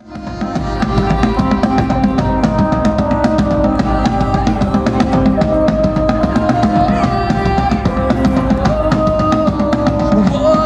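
Live Celtic tribal music: bagpipes playing a held melody over pounding bass and snare drums, fading in over the first second.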